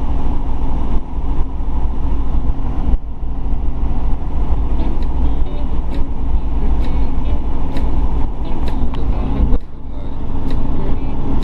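Robinson R44 helicopter's piston engine and rotors running in flight, heard from inside the cockpit as a loud, steady drone. The drone dips briefly about nine and a half seconds in.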